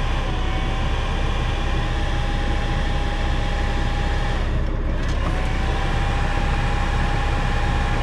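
Semi truck's diesel engine idling with a steady low rumble, heard inside the cab. Over it runs a thin steady whine that sags and drops out about halfway through, then glides back up to its pitch.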